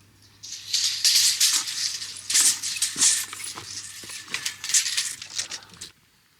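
Rough scraping and rustling noise with many sharp strokes, stopping abruptly about six seconds in.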